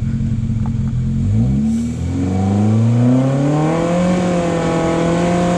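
Side-by-side UTV engine idling, then revving up about a second and a half in and holding at high revs under throttle as the buggy is driven up a rock ledge.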